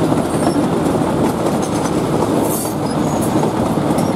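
Narrow-gauge train running along a long curve, heard from aboard: a steady rumble of wheels on rails with occasional clicks.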